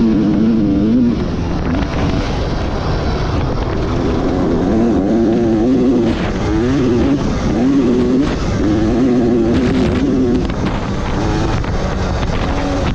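Dirt bike engine revving up and down again and again as the throttle is worked, over a heavy low rush of wind noise.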